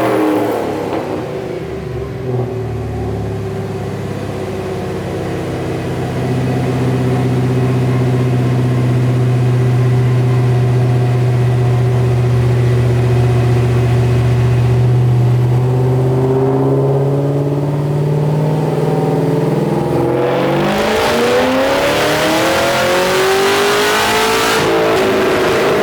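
Car engine running under load on a chassis dyno, its note held steady and creeping up slowly, then about 20 seconds in going to full throttle for a tuning pull, the revs rising steeply and peaking near the end. This is the pull made after the ignition timing was advanced two more degrees.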